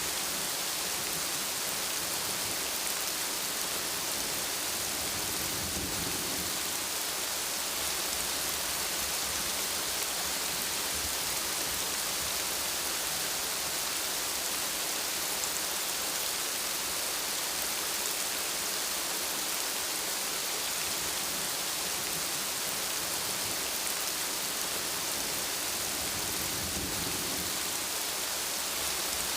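Steady rain falling as an even hiss, with two faint low rumbles of thunder, about six seconds in and again near the end.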